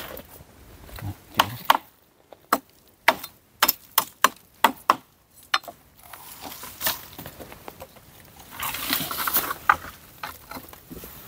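Dry wood being chopped with a blade: about a dozen sharp knocks in quick, uneven succession, followed a few seconds later by rustling and crackling.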